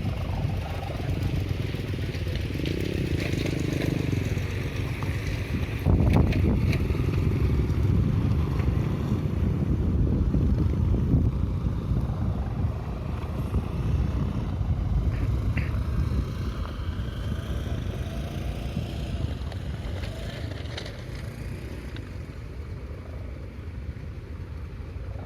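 Low rumble of a passing vehicle that jumps louder about six seconds in, then slowly fades away.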